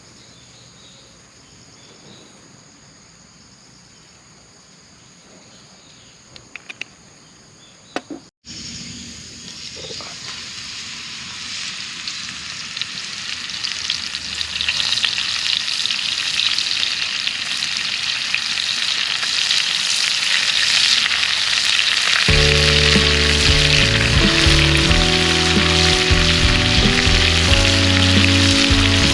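Food sizzling and frying in a hot pan, starting after a sudden cut about eight seconds in and growing steadily louder. Before the cut there is only quiet outdoor ambience with a faint steady insect chirr and a few clicks; background music comes in over the sizzle near the end.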